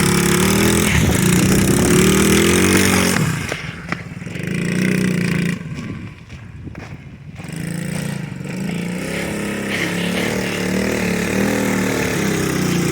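SSR pit bike's small single-cylinder four-stroke engine revving and pulling under load, its pitch rising and falling with the throttle. It fades for a few seconds in the middle, then builds again.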